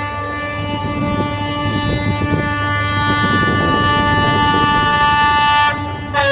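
Henschel locomotive's horn blowing one long, steady blast over the low rumble of the train, breaking off briefly near the end and then sounding again.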